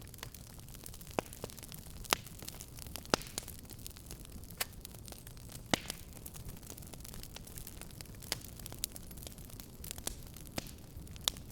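Fire burning in a fireplace: irregular sharp crackles and pops, about one a second, over a steady low rumble and hiss.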